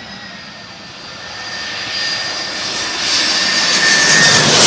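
Jet airliner engines: a high, steady whine over a rushing noise, growing steadily louder and peaking at the end, the whine sinking slightly in pitch.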